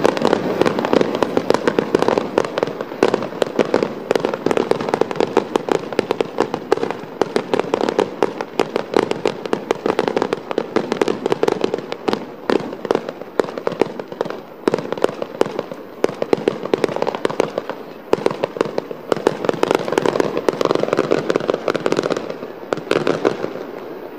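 Fireworks finale barrage: many aerial shells bursting in rapid, overlapping succession with crackle, the bangs thinning and dying away near the end.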